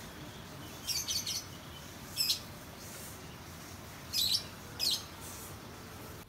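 Small birds chirping: four short bursts of high chirps, the first a quick run of several, over a steady low background noise.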